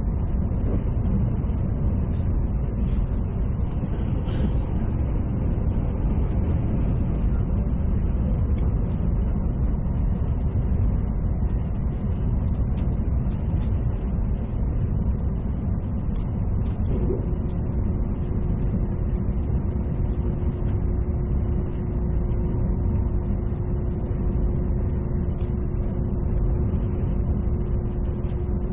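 Cabin running noise of an E657 series limited express train under way: a steady low rumble from the wheels and running gear. About two-thirds of the way through a steady hum joins in and holds.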